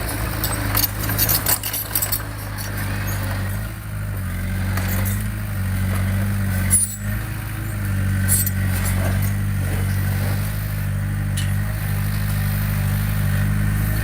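Heavy earthmoving machine's diesel engine running steadily, with scattered metallic clanks and rattles over it.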